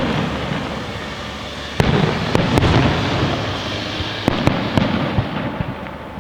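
Fireworks display: sharp shell bursts at the start and again a couple of seconds in, each followed by a long rumbling, crackling tail, with further single cracks along the way, dying down near the end.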